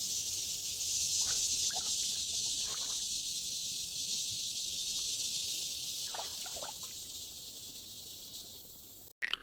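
Rainforest insect chorus: a dense, steady high-pitched hiss that slowly fades, with a few faint short falling calls twice along the way.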